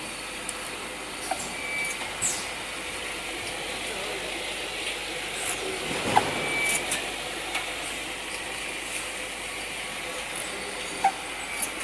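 Automatic lubricant-oil filling line running: a steady machine noise with scattered clicks and knocks, a few short air hisses and two brief beeps.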